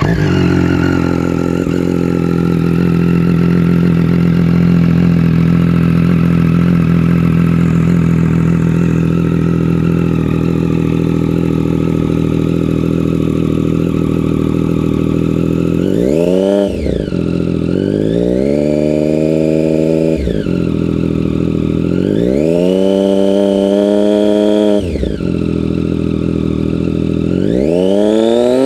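2016 Triumph Street Triple RX's 675 cc three-cylinder engine through a Racefit titanium aftermarket exhaust, idling steadily for the first half. From about halfway it is revved up and held several times, each rev higher than the last before dropping back to idle, with a final climb starting near the end.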